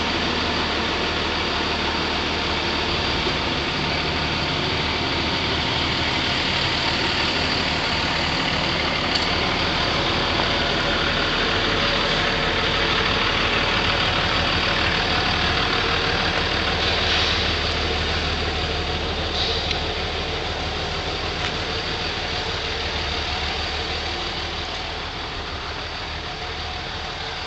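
A vehicle engine idling steadily, a low even hum under general outdoor noise, growing slightly quieter near the end.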